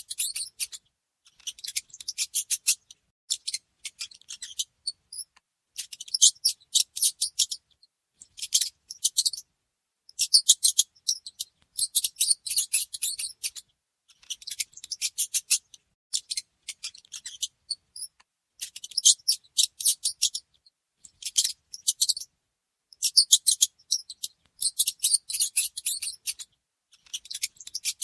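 Mice squeaking: rapid, very high-pitched chirps in repeated bursts of about a second, with short silences between them.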